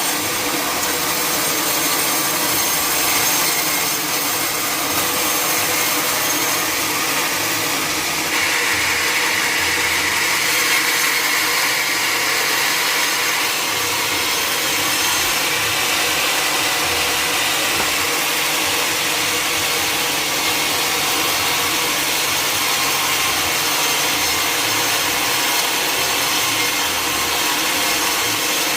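Sawmill saw cutting through wood steadily, with a higher, brighter tone coming in for about five seconds around the middle.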